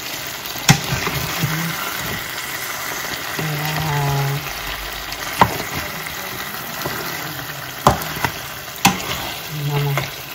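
Pork feet frying in spice paste in a non-stick wok, a steady sizzle, stirred with a wooden spatula that knocks sharply against the pan four times.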